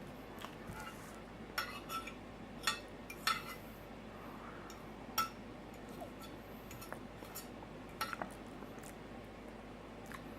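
Cutlery clinking against a dinner plate during a meal: several sharp, separate clinks, a few close together about one and a half to three and a half seconds in, another about five seconds in and a pair near eight seconds.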